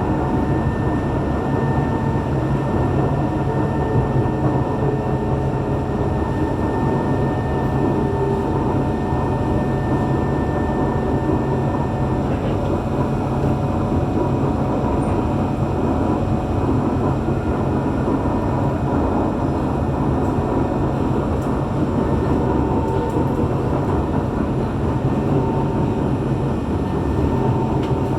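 Running noise of an SMRT C151 metro train under way, heard from inside the carriage: a steady rumble of wheels on track with faint steady whines. The higher whine stops about twelve seconds in.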